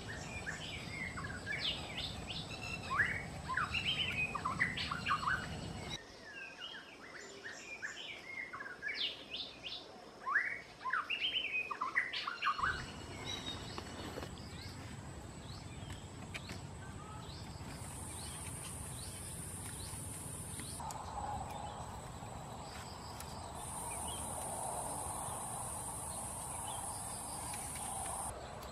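Small birds chirping and calling rapidly in short, quick notes for the first twelve seconds or so. After that the chirping stops and a steady outdoor background remains, with a high, even hiss that comes in twice for a few seconds each.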